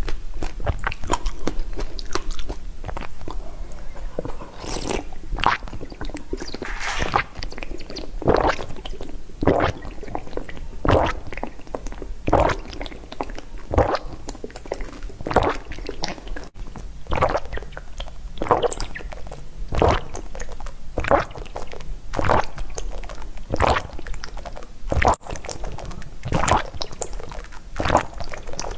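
Close-miked chewing and eating sounds, wet and now and then crunchy, in a steady rhythm of about one to two chews a second.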